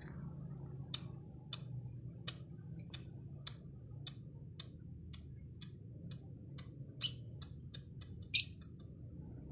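Lovebird giving short, sharp, high-pitched chirps, about two a second, with two longer, louder squawks about three seconds in and near the end. A low steady hum runs underneath.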